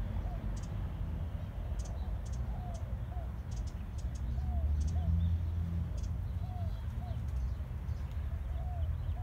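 A bird repeating a short two-note call about every two seconds, with faint high chips and ticks scattered between, over a steady low background rumble.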